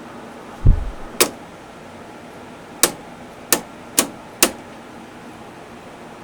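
A dull low thump, then five sharp clicks spread over about three seconds, over the steady running of a dehumidifier's fan.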